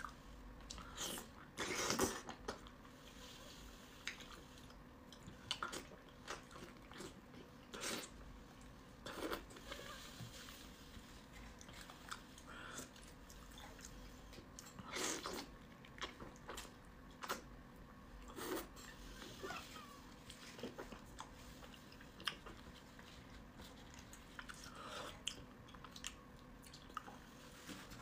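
Close-miked eating: a person biting and chewing pieces of fatty fish in spicy chili sauce, with wet mouth sounds and irregular short, sharp bites, a few of them louder.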